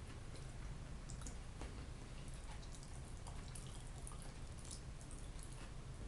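Quiet, wet mouth clicks of chewing fried potatoes and herring, scattered irregularly, with an occasional fork tap on the plate, over a low steady hum.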